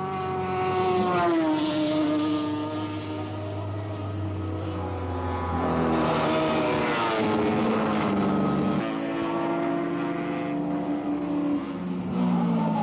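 Superbike racing motorcycles passing at speed, their engines' pitch dropping as each goes by, once about a second in and again around six to eight seconds in, with more bikes following.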